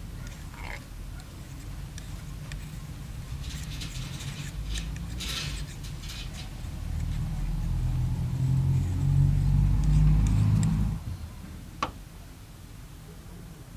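A small motor running with a low hum, getting louder, then cutting off suddenly about eleven seconds in, followed by a single sharp click.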